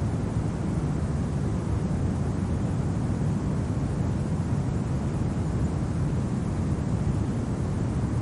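Steady, low wind rumbling without a break, the constant wind of a winter snow ambience; no crackles or other distinct sounds stand out.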